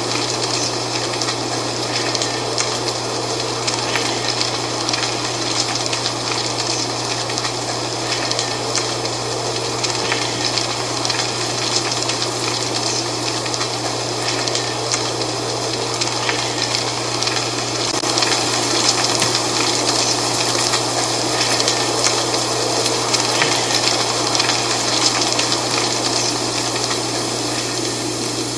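Dry fall leaves rustling in the wind: a steady rush of fine crackling, swelling slightly about two-thirds of the way through, over a constant low hum.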